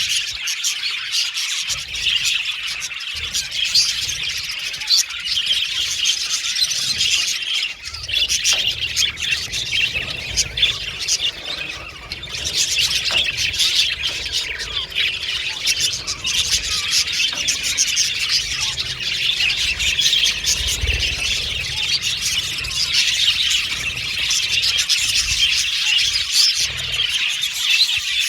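A flock of budgerigars chattering and chirping together, a dense unbroken warble of many overlapping calls that thins briefly about halfway through.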